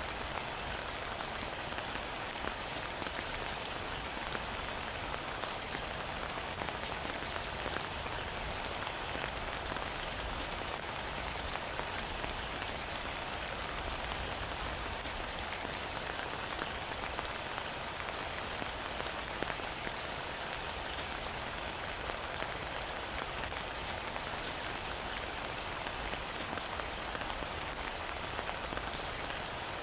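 Steady heavy rain, an even hiss of drops pattering without let-up.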